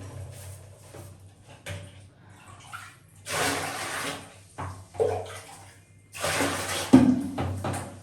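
Water splashing or pouring in a basin in two rushes, one about three seconds in and a longer one about six seconds in, with small knocks and clatters between.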